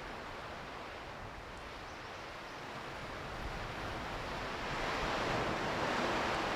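Ocean surf breaking, a steady wash of noise that slowly grows louder.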